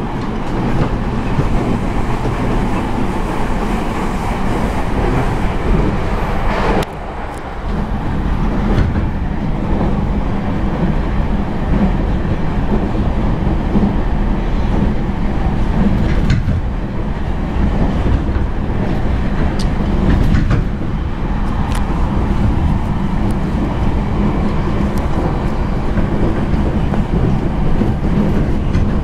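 Passenger train running, heard from inside the carriage: a steady rumble of wheels on the track, with a brief dip in the noise about seven seconds in.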